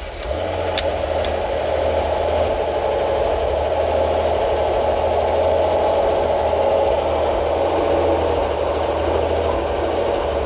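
Helicopter engine and rotor running steadily, a low hum under a mid-pitched drone, building slightly over the first couple of seconds and then holding steady.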